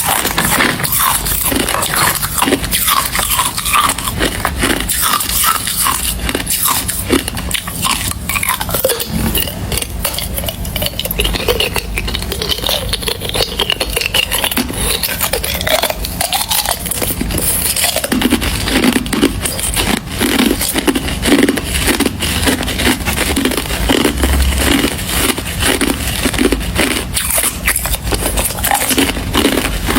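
A person biting and chewing hard ice close to the microphone, in a steady run of crisp crunches and cracks.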